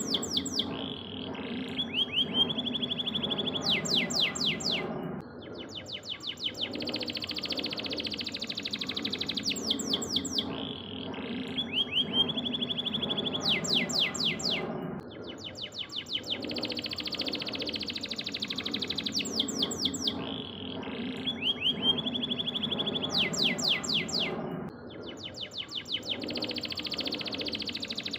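Domestic canary singing continuously: fast rolling trills and runs of quick sweeping notes, over a steady low hum. The same song sequence comes round again about every ten seconds.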